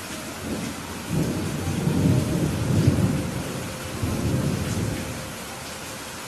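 Steady rain with a roll of thunder: a low rumble builds about a second in, peaks, swells once more and fades away shortly before the end.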